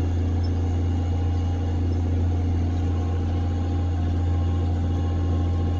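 Farm tractor engine running steadily at constant speed, an even low drone with no change in pitch or level.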